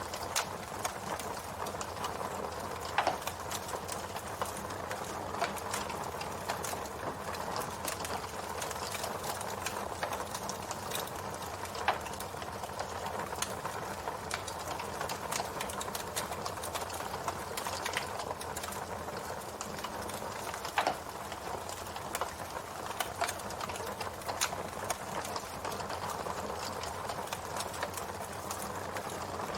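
Campfire burning, its wood crackling steadily with many small pops and a few louder snaps.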